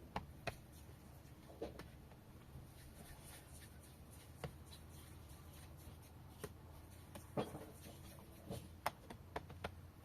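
Scattered faint clicks and taps, spaced unevenly, over a low steady hum.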